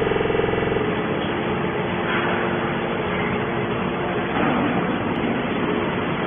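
Hydraulic can baler machine running: a steady mechanical noise, with a pitched hum in about the first second.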